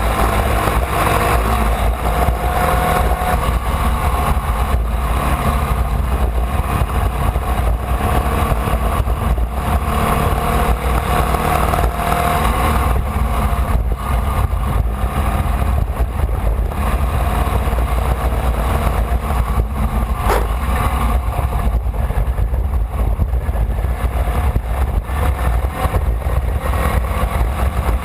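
Formula Vee race car's air-cooled Volkswagen flat-four engine running hard under race load, heard loud and steady from the car with its note shifting slightly in pitch. A single sharp click about 20 seconds in.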